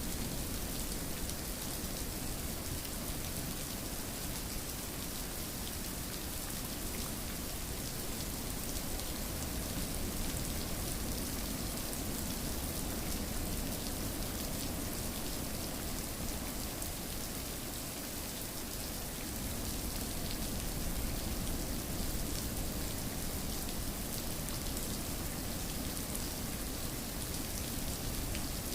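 Steady rainfall, an even hiss of rain with fine pattering drops, unchanging throughout.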